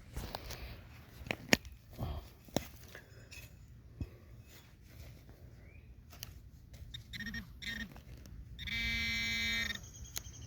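Digging in soil: a string of sharp clicks and knocks. Then a metal detector gives two short buzzes and a steady buzz about a second long near the end, signalling a metal target in the hole.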